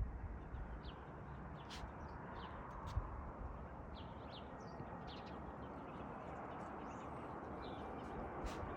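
Small birds chirping, short high calls scattered irregularly throughout, over a steady outdoor background hiss.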